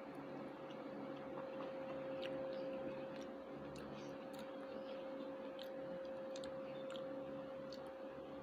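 People eating: faint, irregular small clicks and chewing sounds over a steady hum.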